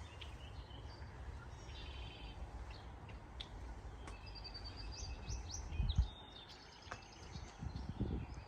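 Several songbirds singing and chirping, with repeated short notes and trills, over a low, uneven rumble that swells briefly twice in the second half.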